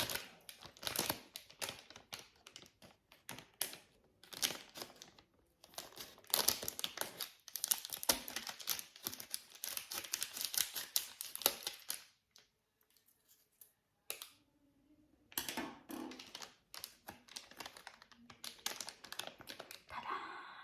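Close-miked ASMR crinkling and rapid small plastic clicks and pops from an anti-stress sensory toy being handled. The handling stops for about three seconds around two-thirds of the way through, then resumes.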